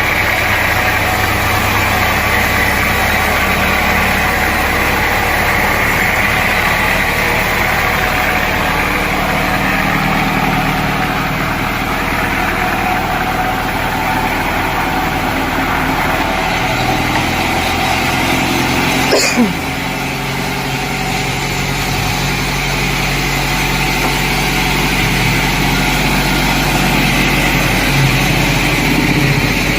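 Sawmill machinery running with a steady engine-like drone, with one brief sharp noise about two-thirds of the way through.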